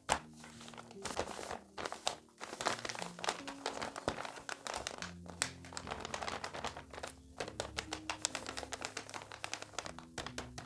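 Paper crinkling and rustling in close, irregular crackles as a handmade paper blind bag is handled and opened, over soft background music.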